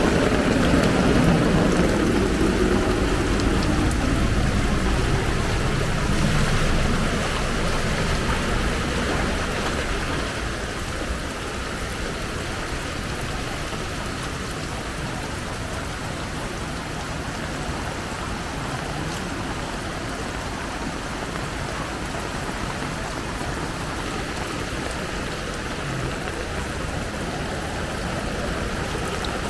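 Steady rain hissing down on a flooded street, with floodwater flowing. A louder low rumble in the first seven seconds or so fades away.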